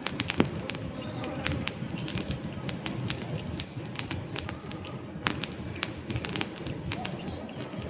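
Wood campfire burning: frequent sharp crackles and pops over a steady low rush of flame. A few faint bird chirps are heard now and then.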